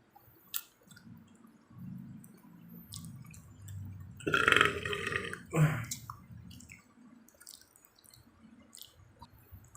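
A person burping: a long, low belch that swells loudest about four to six seconds in.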